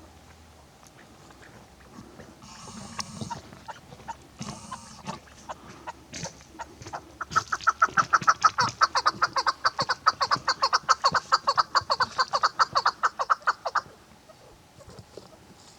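Chukar partridge calling: a long run of fast, evenly repeated clucking notes, several a second, starting about seven seconds in and stopping near the end. Before it come a few short rustling noises.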